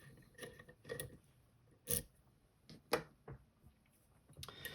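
Scattered light clicks and taps of lock-picking tools being handled at a dimple lock, about six in all, the sharpest about two seconds in.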